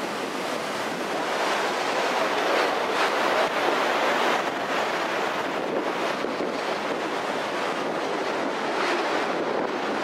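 Steady rushing noise from an open-air car of a moving tourist train: wind over the car and the train rolling on its rails, with no clear wheel rhythm.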